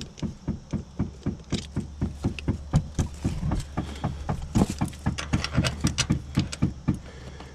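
A quick run of light knocks or steps, about five a second, over a steady low hum.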